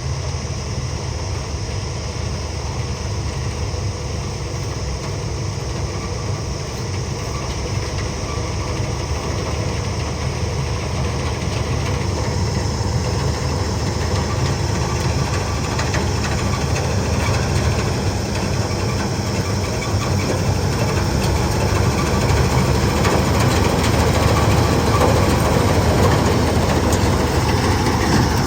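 Kubota harvester's diesel engine running steadily as the machine works the field: a deep, constant drone that grows gradually louder through the second half.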